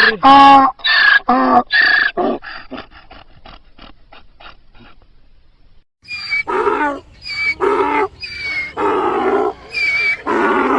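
Donkey braying: a run of loud, alternating hee-haw calls that grow shorter and fainter and die out about five seconds in. After a brief gap, another rhythmic bray starts.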